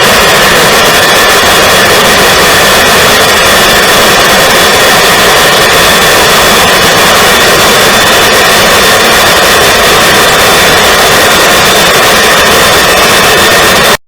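English Electric Lightning F6's number 1 Rolls-Royce Avon turbojet running steadily during a ground run: a very loud, even rush with a steady high-pitched whine over it. It cuts off abruptly at the very end.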